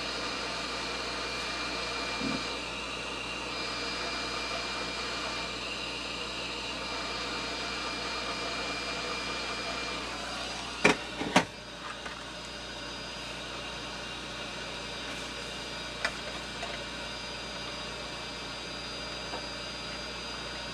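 Heat gun blowing with a steady whine, warming hardened glue to soften it. The whine stops about ten seconds in, followed by two sharp clicks, then a low steady hum.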